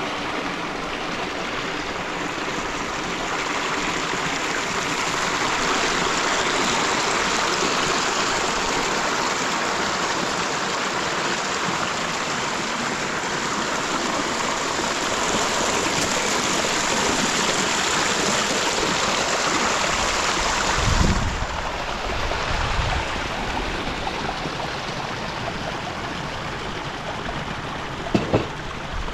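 Steady rushing of running water, like a stream. About two-thirds of the way through the hiss thins and low rumbles and a few short knocks come in.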